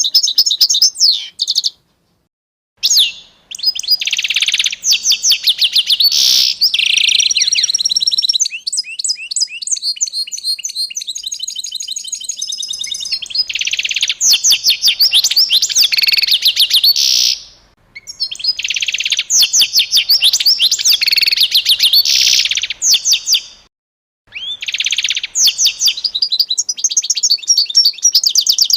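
A songbird singing long, loud phrases of rapid trills and chirps, broken by a few short pauses.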